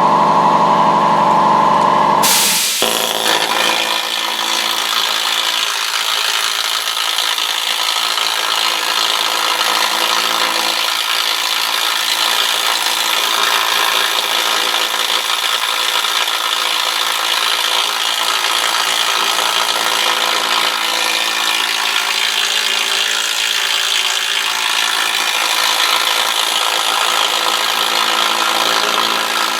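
A power grinder grinding rust off the rusted steel door of a 2007 Chevy Tahoe. It runs loud and steady; about two seconds in the sound suddenly turns to a harsher, hissing grind that carries on unchanged.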